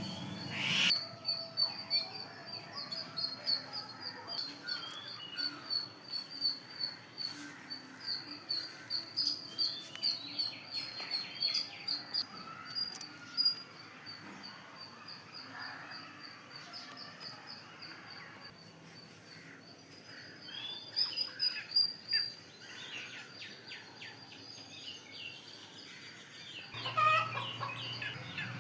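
Birds chirping and calling: a rapid series of short, high chirps for the first dozen seconds or so, then scattered calls, with a louder, lower call near the end.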